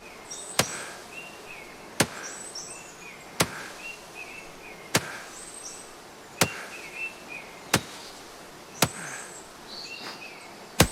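Axe chopping wood in a steady rhythm, a sharp strike about every second and a half, eight strikes in all, with small birds chirping between them.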